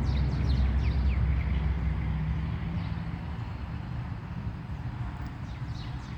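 A car going past, its low rumble loudest at the start and fading away. Small birds chirp in short, downward-sliding notes at the start and again near the end.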